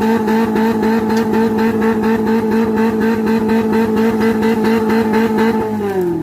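Off-road 4x4 engine held at high revs with a regular pulsing, then the revs fall away near the end.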